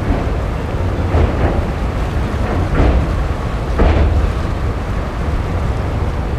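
Passenger train running, heard from its open doorway: a heavy low rumble with wind blowing on the microphone, and a clack from the wheels every second or so.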